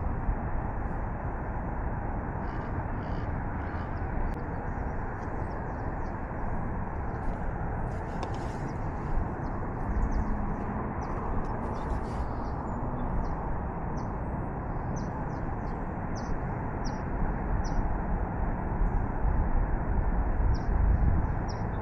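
Outdoor ambience: a steady rushing noise, with short high bird chirps repeating through the second half.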